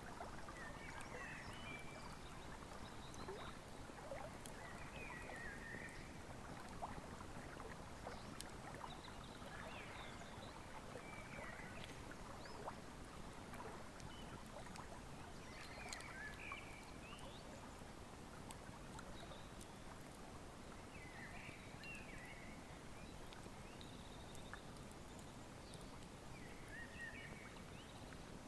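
River flowing steadily under a wood fire's scattered crackles and pops, with short chirping bird calls every few seconds.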